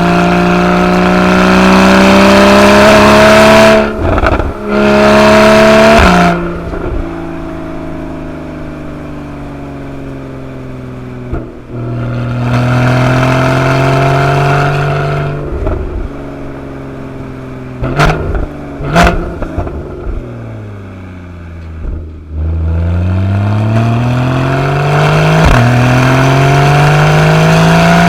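Porsche 981 Boxster GTS flat-six with the factory sport exhaust accelerating hard through the gears, with brief breaks at the upshifts, then falling back as the throttle is lifted. Two sharp exhaust cracks come on the overrun about two-thirds of the way through, and the engine then pulls up again with another upshift near the end.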